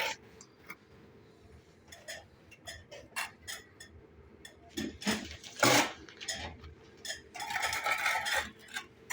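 Bricklaying: a steel trowel clinking and tapping on brick and scraping mortar, with scattered taps, a louder knock about six seconds in, and a stretch of scraping near the end.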